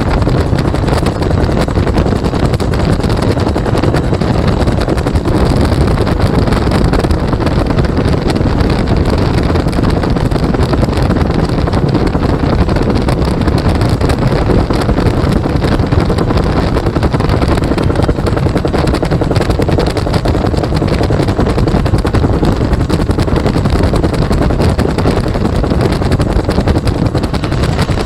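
Bell UH-1 Huey helicopter in flight, heard from the open gunner's seat: its turboshaft engine and two-blade main rotor running loud and steady, with wind rushing past.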